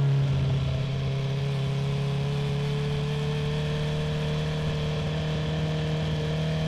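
2019 Honda CB650R inline-four on a full Akrapovic titanium exhaust running at a steady cruise. The revs ease off slightly at the start, then climb slowly and hold.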